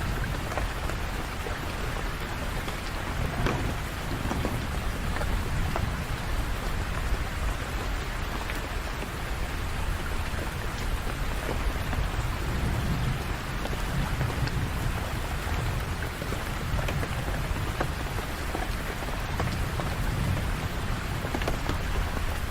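Steady rain falling on hard surfaces, with a continuous low rumble underneath and scattered individual drops.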